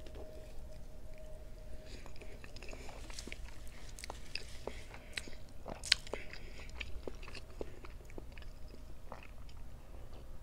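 Wet chewing of a boiled potato, with many small mouth clicks and smacks and one sharper click about six seconds in.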